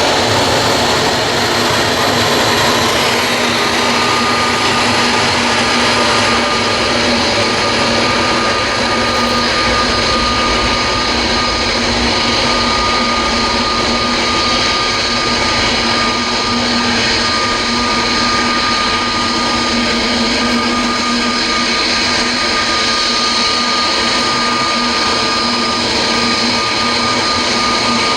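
Jet engines of an Airbus A321neo running at takeoff power: a loud, steady rush with a held whine on top.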